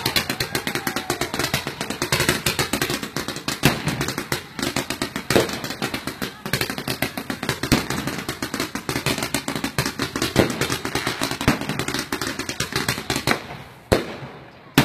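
Fireworks going off close by: a dense, continuous crackle of rapid bangs. It thins out near the end, where a couple of single sharp bangs stand out.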